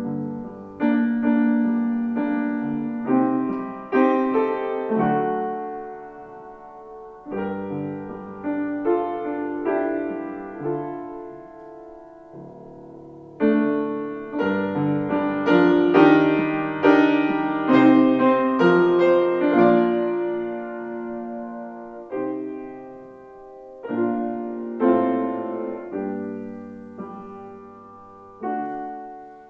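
Piano playing slow, quiet chords in phrases, each chord struck and left to ring away before the next.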